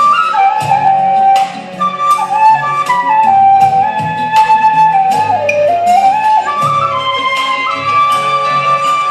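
Vietnamese bamboo flute (sáo trúc) playing a slow melody of held, sliding notes over a backing track with a steady beat.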